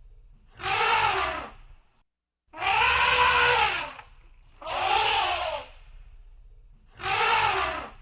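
Elephant trumpeting: four loud, brassy calls about a second long, one every two seconds or so, each rising and then falling in pitch.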